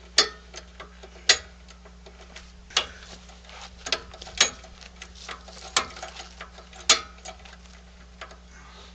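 A series of sharp, irregularly spaced clicks and knocks, about ten in all, over a steady low hum.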